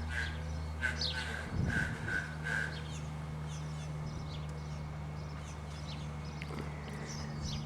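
Birds calling: a quick series of about six short, same-pitched calls in the first three seconds, with a few high falling chirps scattered through. A steady low hum runs underneath.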